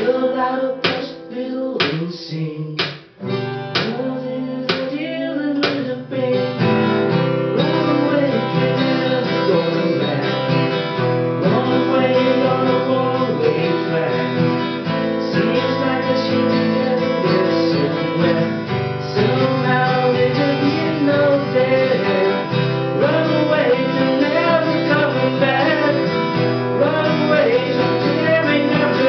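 Acoustic guitar strumming a rock song, with singing. The first six seconds or so are separate, sharp strums, then the playing turns to steady, full strumming.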